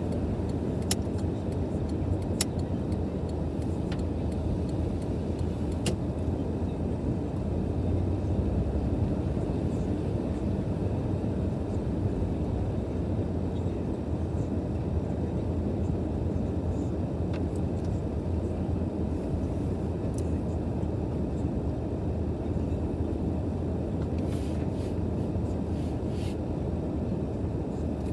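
Car driving, a steady low rumble of engine and road noise, with a few faint clicks in the first several seconds.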